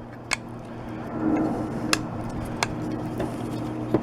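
Tailgate handle and latch release being worked back and forth after lubrication, giving a few separate sharp clicks and some rubbing over a low steady hum.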